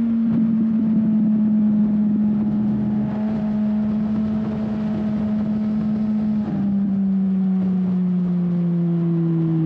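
Onboard sound of a 2007 Suzuki GSX-R 1000's inline-four engine running at speed, with wind rush over the camera. The engine note falls slowly, then steps down abruptly about six and a half seconds in and keeps sinking.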